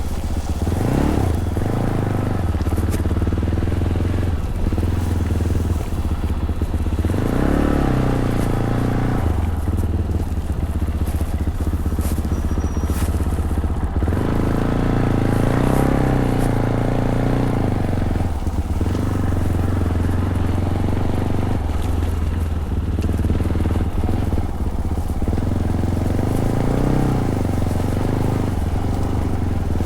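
Fantic Caballero 500's single-cylinder four-stroke engine running through its stock Arrow exhaust, heard from the rider's seat, pulling harder and easing off again several times as the bike rides on.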